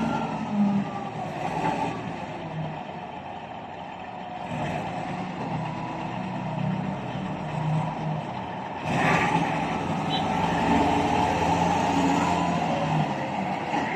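Heavy truck engines running steadily, with a sudden surge about nine seconds in after which they run louder.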